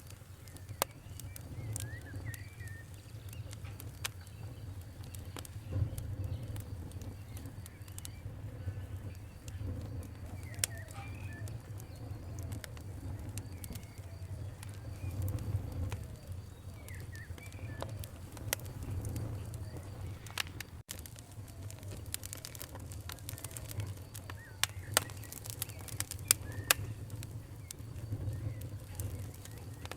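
Campfire crackling: sharp pops scattered throughout over a low steady rumble of the flames, with a few louder pops near the end. Faint bird chirps come and go in the background.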